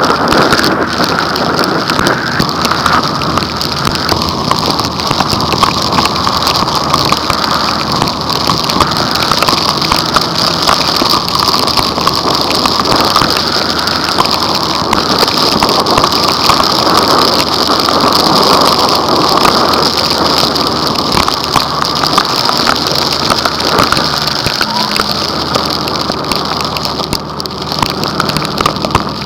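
Heavy downpour pelting a car, a loud, steady hiss of rain from a violent thunderstorm.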